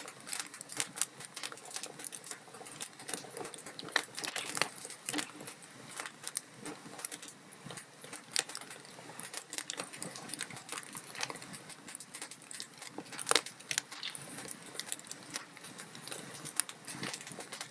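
Wood fire in a fireplace crackling steadily, with many irregular sharp pops and snaps over a soft hiss; a few louder pops stand out, the loudest about thirteen seconds in.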